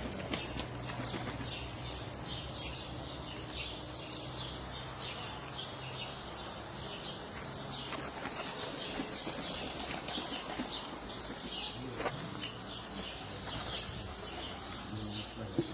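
Domestic pigeons flapping their wings, with many short bird chirps throughout.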